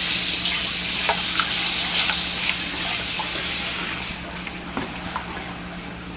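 Spoon stirring chicken, cream of chicken soup and water in a pot, with small scrapes and clicks against the pot over a sizzling hiss that fades away. A low steady hum runs underneath.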